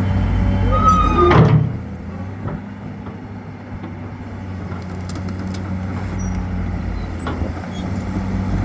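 SANY 210 hydraulic excavator's diesel engine running steadily, with a brief louder burst and a short whine about a second in, after which the sound drops and slowly builds back up.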